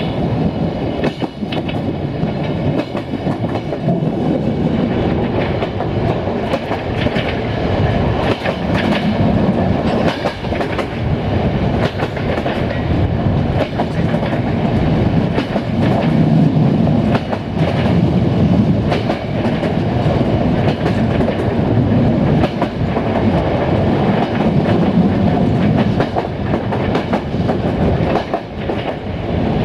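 Passenger train running along the track: a steady rumble from the moving coach, broken by repeated clickety-clack clicks as the wheels pass over rail joints.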